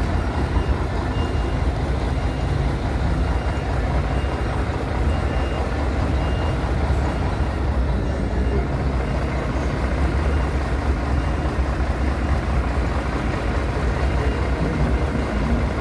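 Steady, low vehicle rumble with road or running noise. A faint, evenly repeated high beep sounds through the first half.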